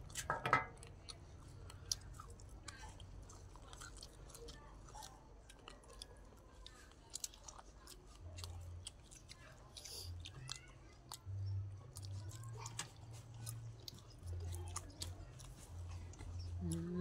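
People chewing and biting into grilled chicken drumsticks and fresh vegetables close to the microphone, with many small mouth clicks throughout and a brief vocal sound about half a second in.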